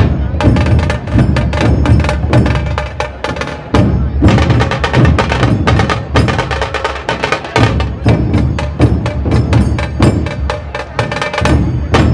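Dhol tasha ensemble drumming: large two-headed dhol drums beating under rapid, sharp stick strokes on tasha drums, in a fast, dense, unbroken rhythm.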